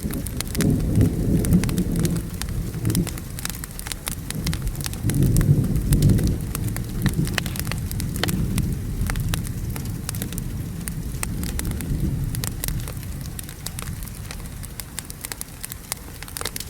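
Thunder rolling in two waves, the first starting about half a second in and a louder one around five seconds, then fading away. Underneath are steady rain and the sharp crackles and pops of a wood fire.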